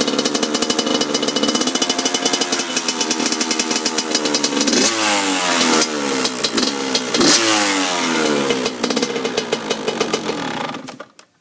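2002 Yamaha YZ85 two-stroke single-cylinder engine idling, blipped up in revs three times in the middle, then shut off and falling silent just before the end.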